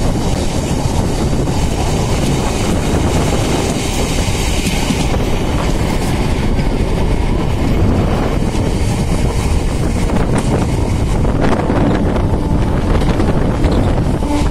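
Electric multiple-unit (MEMU) train running at speed, heard from beside the coach: a loud, steady rumble of wheels on rails with a higher hiss that eases after about five seconds.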